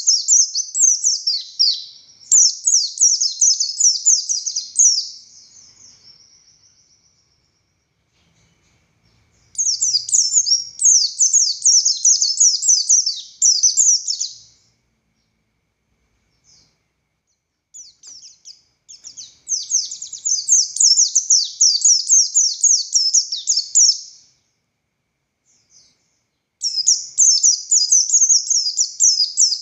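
A pleci buxtoni white-eye sings loud bursts of rapid, high, chattering and trilling notes. About five phrases come, each a few seconds long, separated by short pauses.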